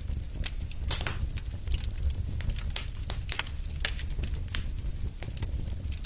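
Wood fire burning in a fireplace, crackling with many sharp, irregular pops over the low, steady rumble of the flames.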